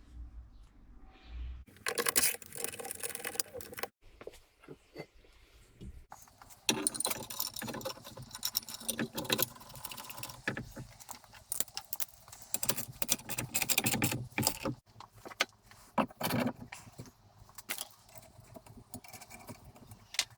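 Small metal parts and tools clinking and rattling as they are handled, in several short stretches that cut off abruptly.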